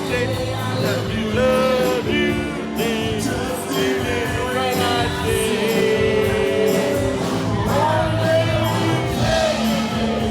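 Live band playing a rock song, with singing over steady bass and accompaniment.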